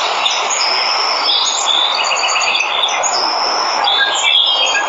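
Steady rush of a waterfall, with several birds whistling and chirping over it: high drawn-out whistles and, around the middle, a quick run of short repeated notes.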